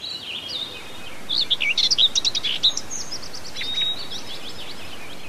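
Small birds chirping and singing: many short high chirps and quick trills over a faint steady hiss, with a busy run of rapid notes about a second in.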